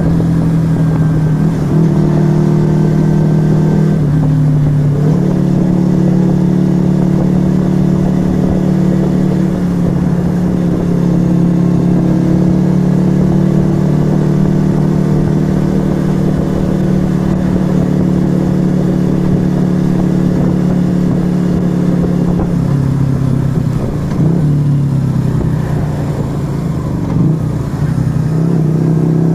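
Yamaha XV125 Virago's small air-cooled V-twin running through a Turbo Kit aftermarket exhaust while riding. The engine note holds mostly steady, shifts pitch about four seconds in, drops off a little past two-thirds of the way through, then climbs again near the end.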